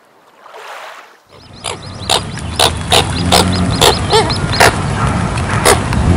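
Coots calling: a run of short, sharp calls about two a second, starting about a second in, with a few higher wavering notes in the middle, over a steady low rumble.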